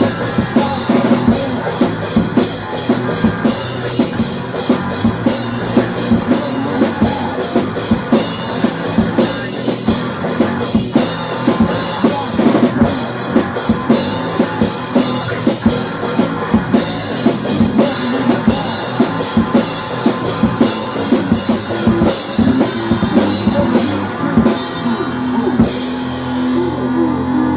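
Rock band playing with a busy drum kit and guitar; the drums stop near the end, leaving a held guitar chord ringing.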